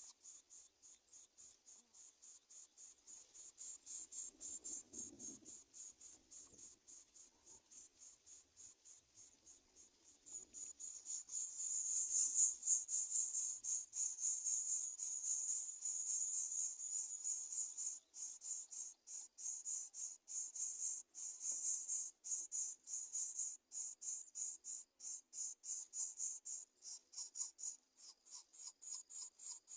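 Insects chirping in a fast, even, high-pitched pulse that keeps on throughout and grows louder about ten seconds in.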